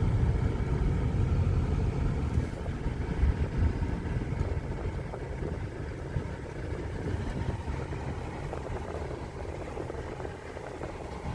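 A car heard from inside the cabin while driving: steady low engine and road rumble, a little quieter in the second half.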